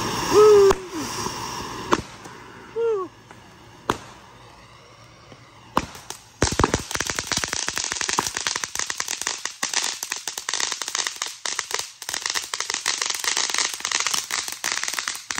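Ground fireworks fountain spraying sparks. It starts with a hiss and a loud, short, wavering tone, heard again about three seconds in. After a quieter stretch with a few sharp pops, dense rapid crackling starts about six and a half seconds in and keeps going.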